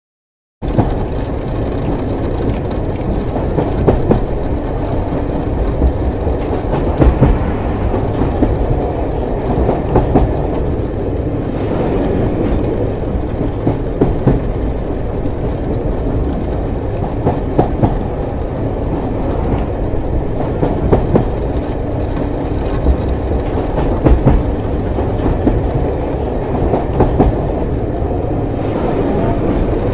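Train in motion: a steady low rumble with frequent, irregular knocks and clicks from the wheels running over the track, starting about half a second in.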